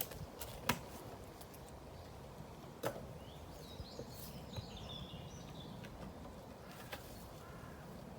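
Quiet background with two sharp knocks, just under a second in and near three seconds, and a brief high chirping in the middle.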